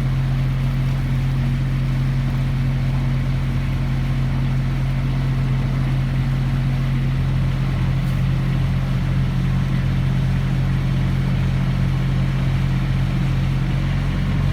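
An engine running at a steady speed, a deep, even hum; about halfway through a low, regular throbbing beat sets in underneath it.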